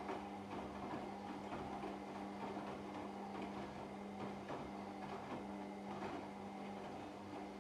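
Washing machine running a wash cycle: a steady motor hum with irregular soft clicks and knocks from the laundry tumbling in the drum.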